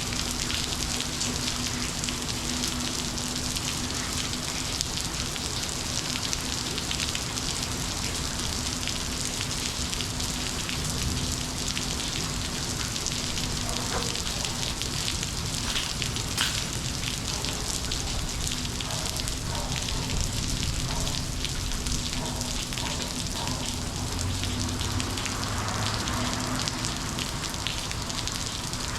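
Steady monsoon rain pouring down, an even rushing hiss with scattered drop ticks. A faint steady low hum sits underneath for about the first half.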